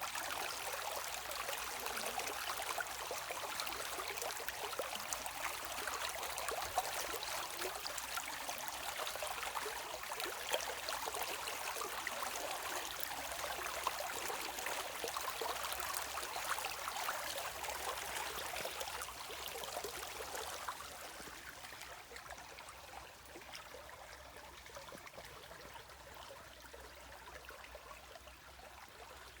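Shallow stream of running water trickling and babbling, a dense crackle of small splashes, growing quieter about two-thirds of the way through.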